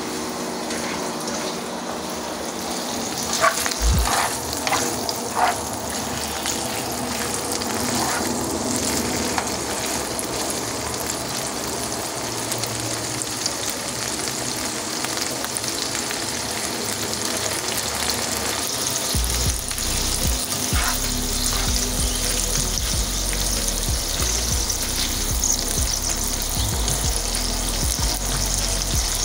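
Peeled shrimp sizzling and frying in hot olive oil with garlic in a nonstick frying pan, stirred now and then with a spatula. There are a few sharp clicks about four to five seconds in.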